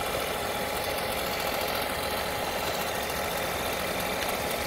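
Seat Ibiza 1.2 TSI four-cylinder turbo petrol engine idling steadily, heard close up in the engine bay.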